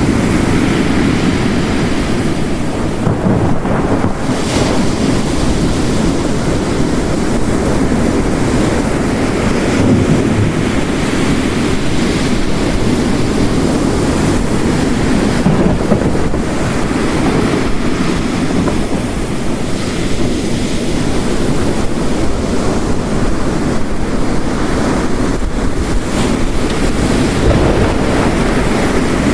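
Ocean waves crashing on a rocky coast, mixed with heavy rain into one steady, dense rushing noise with no separate strikes or lulls.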